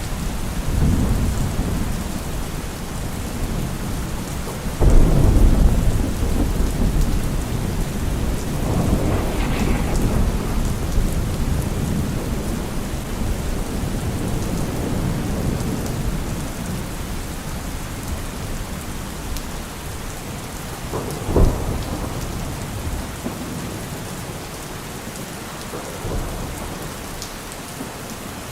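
Steady rain falling, with thunder: a sudden loud clap about five seconds in that rumbles on for several seconds, and a shorter, sharper crack about three-quarters of the way through.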